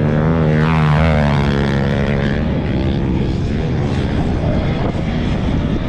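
Loud motor-vehicle engine running hard, its pitch swinging up and down with the revs about a second in, then holding a steady drone.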